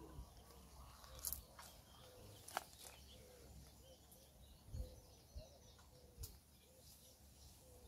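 Near silence with faint bird calls and a few soft clicks.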